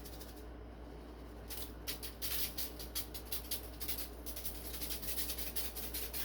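A shaker of dry barbecue rub being shaken over ribs, its grains rattling in quick, irregular shakes that begin about a second and a half in.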